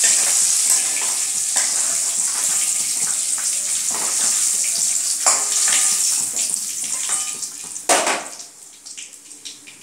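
Prawns sizzling in hot oil in a steel kadai, with a metal spatula scraping and clinking against the pan as they are lifted out. The sizzle dies down over the last few seconds.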